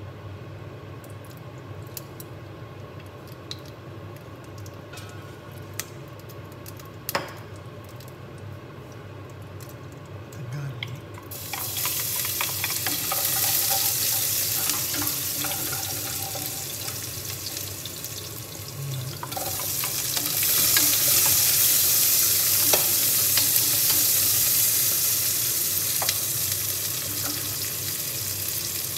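Chopped vegetables frying in hot olive oil in a stainless steel saucepan, stirred with a wooden spoon. A few light clicks and knocks come first, then a sizzle starts suddenly about 11 seconds in as the food meets the oil, and it gets louder again about 19 seconds in.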